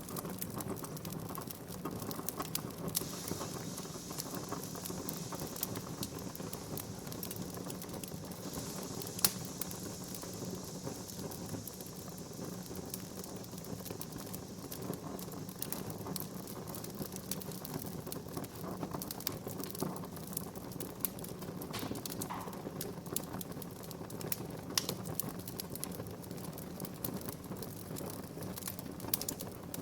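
Wood fire in a fireplace crackling steadily, with frequent small pops and snaps and one louder pop about nine seconds in.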